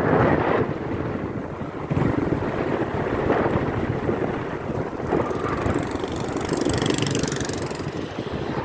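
Wind buffeting the microphone with a continuous rough rumble. A brighter hissing rush swells from about five seconds in and fades near the end.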